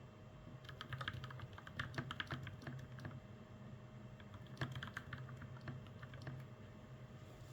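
Typing on a mechanical keyboard built from a GamaKay LK67 with Gateron Milky Yellow Pro linear switches and PBT keycaps. Keystrokes come in two quick flurries with a pause between.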